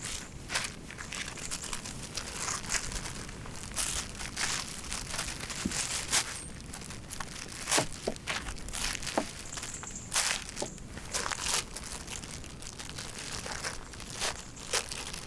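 Footsteps crunching in crisp, frozen snow: an uneven string of short crunches and crinkles, some much louder than others.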